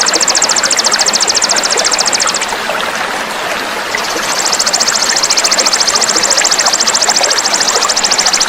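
A fast, even, high-pitched buzzing trill, the kind of coarse 'isian' call played to train songbirds. It breaks off for about a second and a half midway, then resumes, over a steady rush of flowing water.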